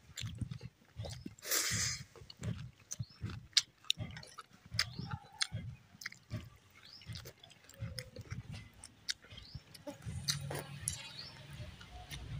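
Close-miked chewing of a mouthful of rice and saag, eaten by hand: irregular wet smacks and lip clicks. A low steady hum comes in near the end.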